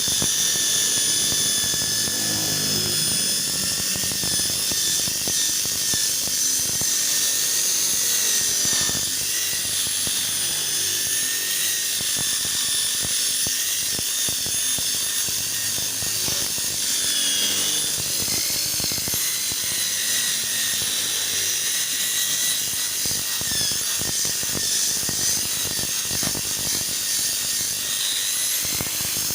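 Small handheld electric power tool running steadily with a high motor whine whose pitch wavers slightly, as the sanded plastic headlamp lens is being treated.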